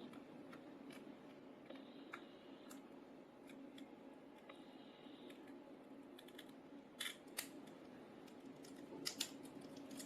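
Faint small clicks and ticks of a prying tool working around a phone's broken display and frame, a few sharper clicks near the end, over a low steady hum.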